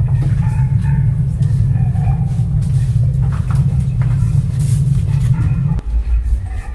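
A loud, deep rumbling drone from a horror soundscape, with faint scattered sounds above it. The drone cuts off suddenly near the end and gives way to a deeper pulsing rumble.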